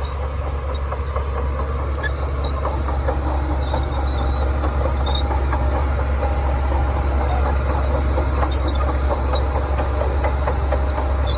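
Shantui DH17C2 crawler bulldozer's diesel engine running steadily under work, with light clicking and brief squeaks from its tracks; it grows slightly louder over the first few seconds.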